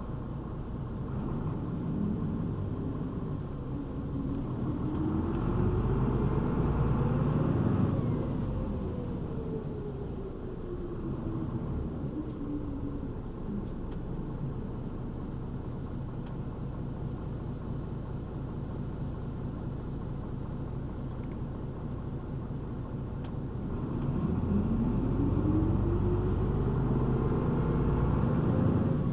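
City bus heard from inside the cabin. The engine and drivetrain rise in pitch as the bus accelerates, ease back down after several seconds, run steadily, then rise again near the end.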